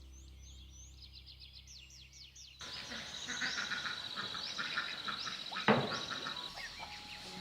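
Rapid high chirps, then about two and a half seconds in an abrupt change to a dense chorus of frogs croaking with a steady rapid trill. A single sharp knock near six seconds in.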